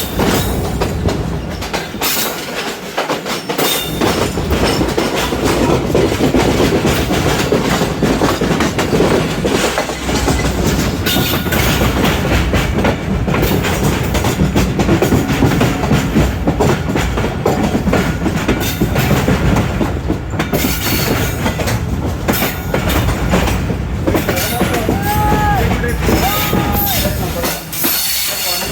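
Train cars rolling along the track, a steady dense rattle and clatter of wheels over the rail joints. Near the end come two short high tones that rise and fall.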